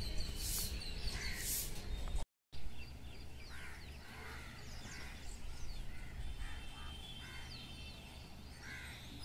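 Rhythmic high hissing about once a second, then after a brief break, small birds chirping and calling in short, varied notes over a steady low rumble.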